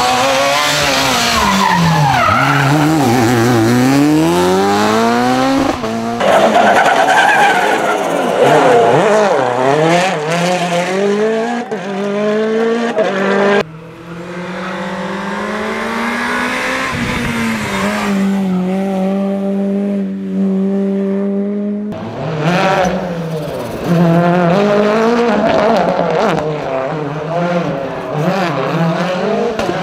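Rally car engines at full throttle, revving up and dropping again and again through the gear changes, with tyre squeal. The sound switches abruptly from one car to the next a few times; in the middle stretch an engine holds a steadier, slowly climbing note.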